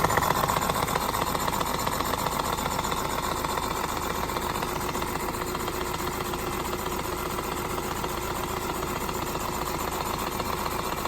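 A Stevens Model Dockyard toy steam engine running steadily, a fast even beat of its working.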